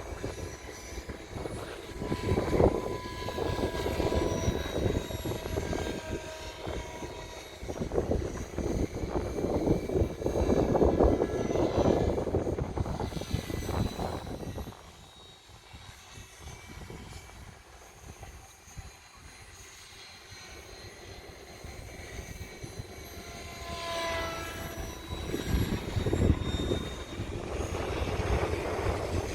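Hirobo Lepton EX 500-class radio-controlled model helicopter in flight: a steady rotor and motor whine with a rushing blade sound, shifting in pitch and loudness as it manoeuvres. It grows quieter for several seconds past the middle, then louder again near the end.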